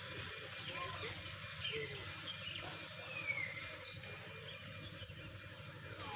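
Birds chirping outdoors: short, scattered calls, several sliding down in pitch, over a steady low rumble.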